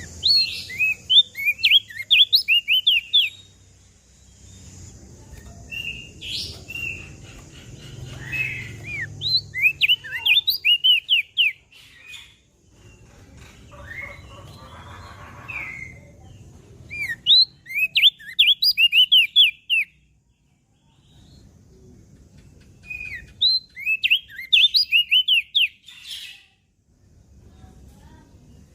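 Opior jambul (crested white-eye) singing. It gives four fast phrases of sharp, high, quickly sweeping chirps, each lasting about three seconds, with pauses between them.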